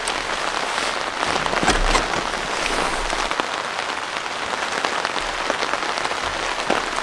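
Heavy rain falling steadily, a dense hiss of countless drops striking.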